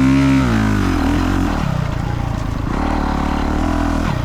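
Dirt bike engine revving up and falling off, then running lower before revving again for about a second and a half and dropping back near the end.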